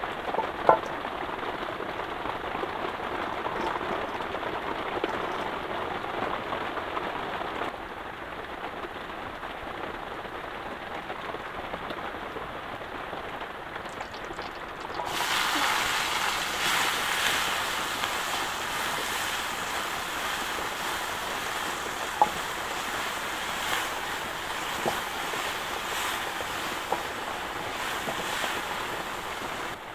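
Heavy rain falling steadily, with a few sharp drip-like clicks; the downpour grows louder and brighter about halfway through.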